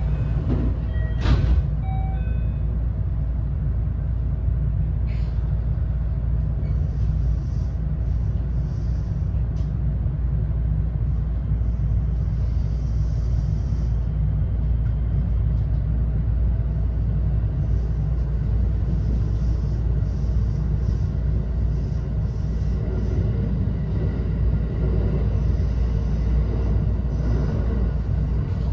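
Interior running sound of a JR West 321 series electric train's unpowered trailer car, so no traction-motor whine: a steady, deep rumble of wheels on rail. A single sharp click about a second in.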